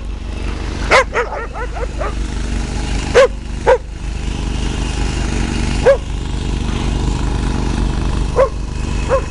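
Dogs barking in short, sharp barks while playing in deep snow, with a quick run of yips about a second in and single barks every second or two after, over a steady low rumble.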